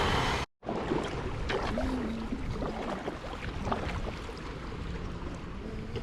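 Wind buffeting the microphone over water lapping around a sea kayak, with a loud rushing gust at the start that cuts off suddenly about half a second in.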